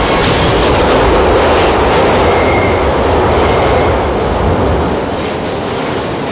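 Subway train rushing past at speed: a loud, steady rumble and rush of wheels and cars, with a thin high wheel squeal joining about halfway through.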